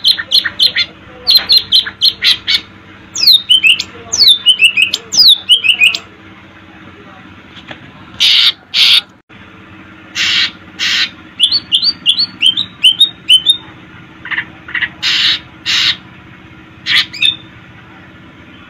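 Greater green leafbird (cucak ijo) singing loudly in bursts: sharp high notes, a cascade of downward-gliding whistles, and a quick run of short rising chirps, with brief pauses between phrases.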